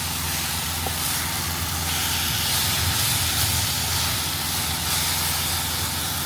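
Semi truck's diesel engine idling steadily, a low even hum with a steady hiss over it.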